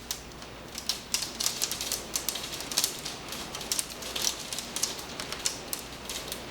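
Hailstones striking a hard surface: a dense, irregular clatter of sharp clicks that picks up about a second in and thins out near the end.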